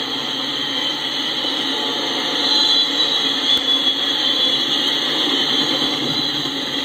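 Double-stack container train cars rolling past, a steady noise of steel wheels on the rails, a little louder about a third of the way through.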